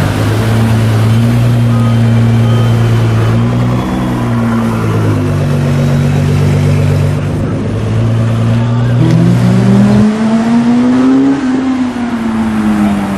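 Sports car engines running steadily at low revs. Near the end one car accelerates past, its engine pitch rising and then falling.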